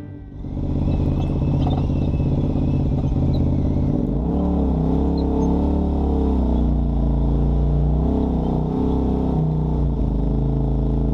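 An off-road vehicle's engine running under changing throttle, its pitch rising and falling from about four seconds in.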